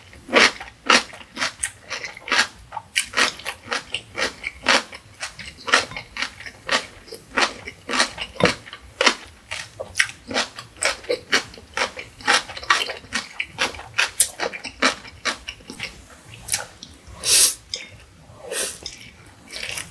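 Close-miked chewing of Indomie Mi Goreng stir-fried instant noodles: rapid, irregular wet mouth clicks and smacks, several a second. Near the end, a longer slurp as a mouthful of noodles is drawn in.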